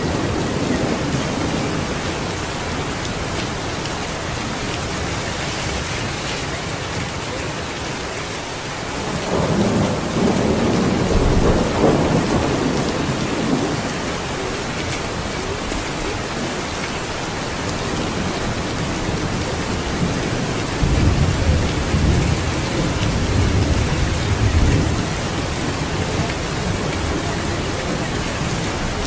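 Steady heavy rain with thunder rumbling low, swelling twice: about nine seconds in and again past the twenty-second mark.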